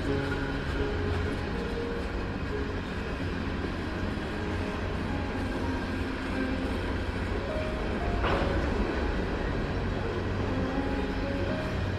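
Canadian Pacific Rail train running past with a steady low rumble, with one brief sharp hiss about eight seconds in.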